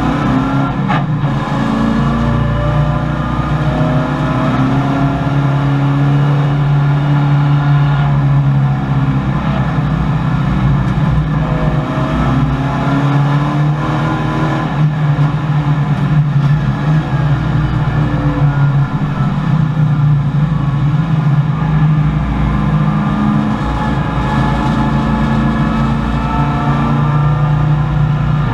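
1984 Chevrolet Camaro race car's V8 engine heard from inside the cabin at racing speed, its pitch climbing and dropping again and again as it accelerates, lifts and changes gear.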